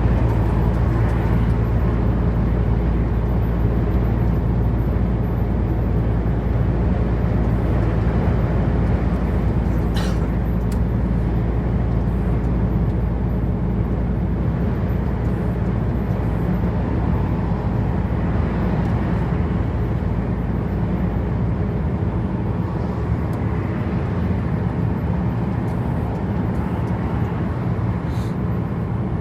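Truck engine running steadily at motorway speed under tyre and road noise, heard from inside the cab, with a short tick about ten seconds in.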